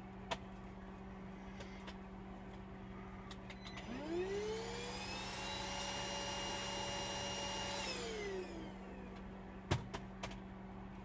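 Small electric motor whirring up to speed, running steadily for about three seconds, then winding down. A few sharp clicks follow near the end.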